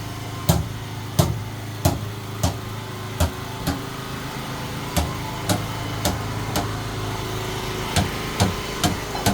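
Hammer blows on the boat's wooden planking, about one or two a second with two short pauses, over a steady engine hum.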